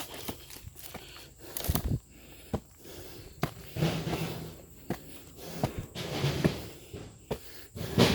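Footsteps of a person climbing up over ground and debris, an uneven series of steps and knocks with scuffing.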